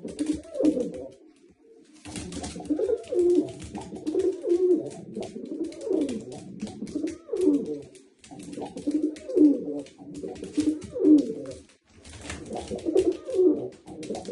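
Domestic pigeons cooing, low wavering coos repeated one after another with a short pause about a second in, alongside many light clicks.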